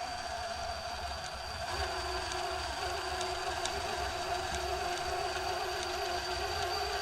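RC crawler's electric motor and geared drivetrain whining steadily under load as it climbs an incline, with a lower whine joining about two seconds in and a few faint ticks.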